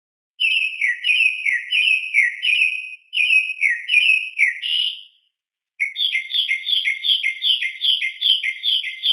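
A bird chirping in three bouts of short, repeated notes that start and stop abruptly; the third bout, starting about six seconds in, is faster, at roughly three to four notes a second.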